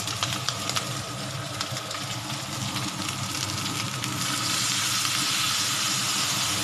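Pork pieces sizzling and crackling in a hot wok. About four seconds in, water is poured in and the sizzle turns into a louder, steady hiss as it boils off into steam.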